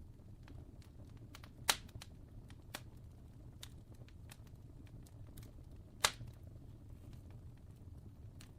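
Fire crackling: scattered sharp pops and snaps over a low steady rumble, with two loud pops, one about two seconds in and one about six seconds in.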